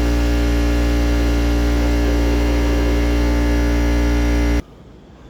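Air compressor running with a steady, loud hum and drone, cutting off suddenly near the end.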